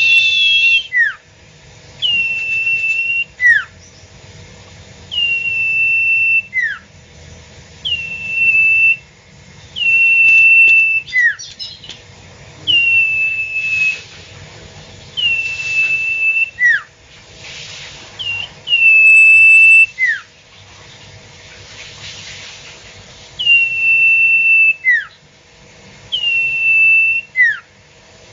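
A bird calling over and over: a clear whistled note held for about a second, then a short falling note, repeated roughly every two to three seconds without a break.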